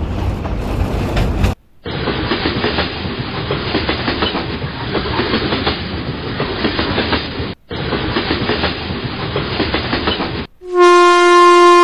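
Train wheels clattering over the rails while the train runs along, then near the end a loud, steady horn blast.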